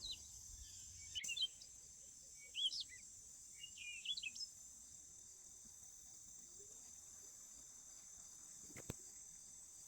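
Faint outdoor ambience: a steady high-pitched insect drone, with a few short bird chirps in the first half and a single soft tap near the end.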